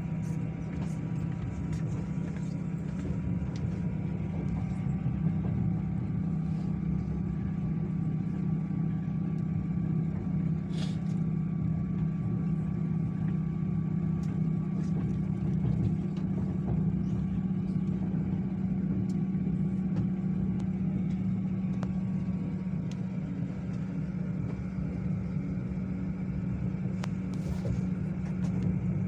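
Passenger train running: a steady rumble and hum heard inside the carriage, with a few faint clicks.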